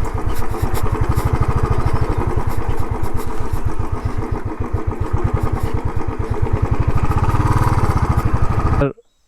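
Royal Enfield motorcycle engine running with a steady, fast beat of exhaust pulses, cutting off suddenly near the end.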